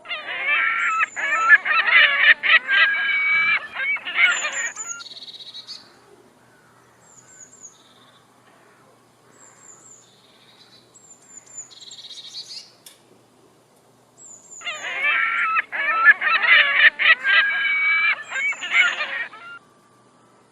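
Black-billed magpies calling: two stretches of loud, harsh, nasal calls, each about five seconds long, one at the start and one about fifteen seconds in. Short high falling chirps and quieter calls come between them.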